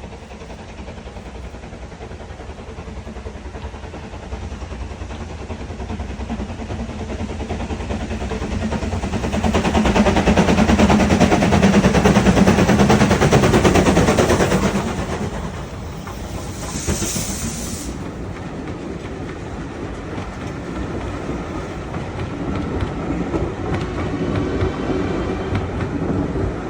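Ivatt steam locomotive working a train past, its fast exhaust beats growing louder to a peak about ten to fourteen seconds in, then falling away as the train rolls on with wheels clattering on the rails. A brief high-pitched hiss comes a little past the middle.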